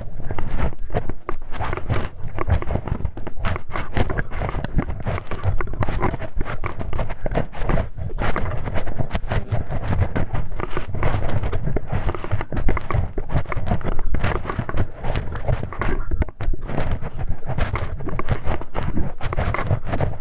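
Ear-cleaning ASMR sounds: a hex key scraping, rubbing and clicking close to the microphone in a dense, irregular stream of small clicks and scratches.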